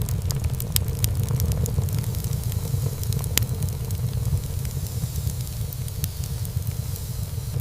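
Wood fire burning in a fireplace: a steady low rumble of flames with scattered crackles and pops throughout, and one sharper pop about three and a half seconds in.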